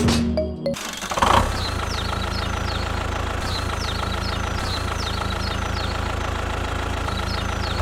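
A small engine running steadily at idle, with a faint high chirp repeating about twice a second. It starts abruptly just under a second in, after a moment of music.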